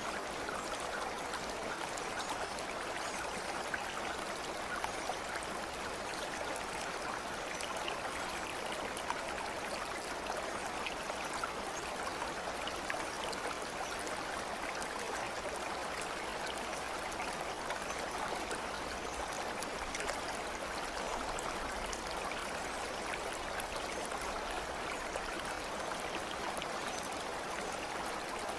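Flowing stream water: a steady, even rush of running water without pause.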